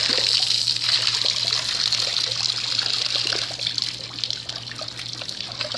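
Water trickling and splashing as it drains out of a Hayward Navigator Pro suction pool cleaner just lifted out of the pool, tapering off over the last couple of seconds, over a steady low hum.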